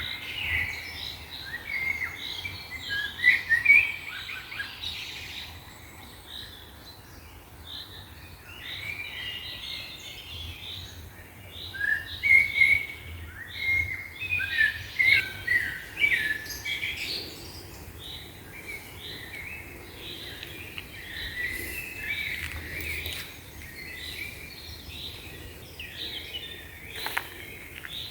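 Songbirds singing: rapid, overlapping chirping phrases, busiest in bursts near the start and around the middle.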